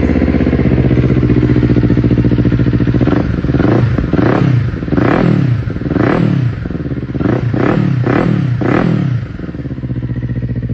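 Big motorcycle engine idling, then its throttle blipped about seven times in quick succession, each rev rising and falling back. It settles to a steady idle near the end.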